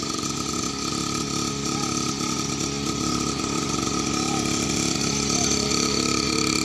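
A small motorcycle engine running steadily, with a steady high whine over it.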